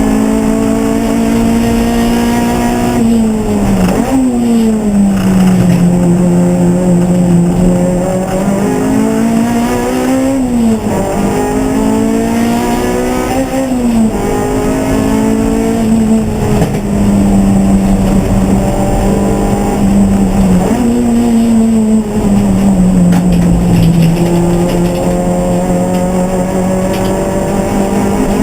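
Race car engine working through a stretch of track, its pitch climbing under throttle and dropping sharply several times as the car brakes and changes gear.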